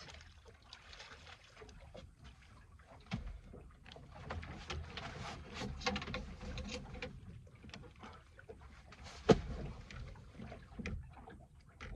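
Scattered knocks and thuds in a small boat as a landed conger eel thrashes and spins around, with a cluster of clattering about four to seven seconds in and one loud sharp knock about nine seconds in.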